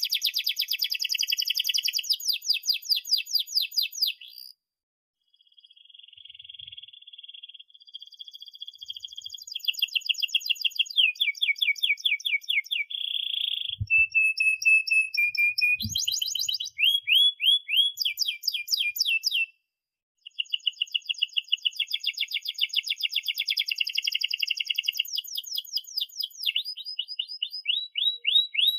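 Domestic canary singing a long song of fast, rolling trills, each made of rapidly repeated high notes, with changes in phrase. The song breaks off briefly twice, about a quarter of the way in and about two-thirds of the way in.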